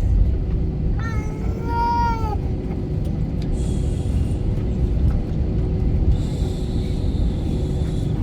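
Steady low rumble of airliner cabin noise in flight, with a baby giving one wailing cry about a second in that lasts about a second and a half.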